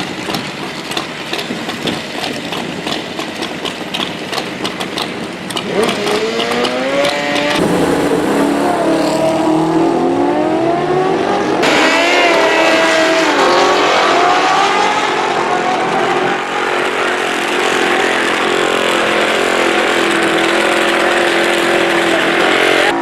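Drag-racing engines at high revs, their pitch climbing and falling over one another and growing louder about six seconds in. Sharp crackling fills the first few seconds.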